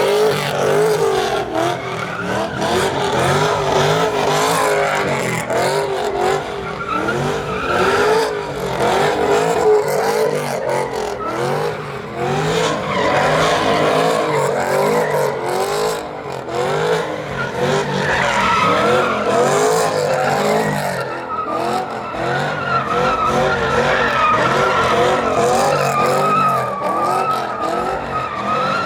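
Truck engine held at high revs in a burnout, the pitch rising and falling over and over, while the spinning tyres squeal and hiss.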